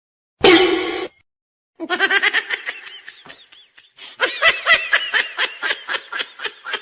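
High-pitched laughter: a short cry about half a second in, then from about two seconds on a long run of rapid laughing bursts, about six a second.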